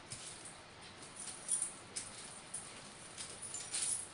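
A dog's claws and paws clicking and scraping at a hard surface in short scrabbles, with a busier flurry about a second and a half in and again near the end.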